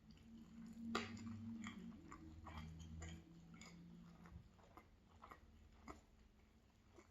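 Close-miked chewing of bread, with small crunches and wet mouth clicks, the sharpest about a second in. A low hum runs under the first half and stops at about the middle.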